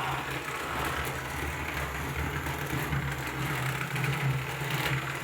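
Toy train running along its track, its small electric motor giving a steady low hum.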